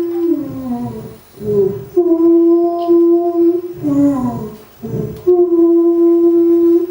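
A man singing a wren's song slowed down about twenty times: long held notes, each broken off into a falling glide and a few low rough pulses, the phrase repeating twice.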